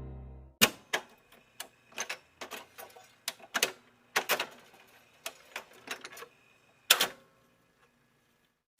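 An irregular series of sharp clicks and taps, about fifteen in six seconds, the loudest near the start and about seven seconds in, then stopping.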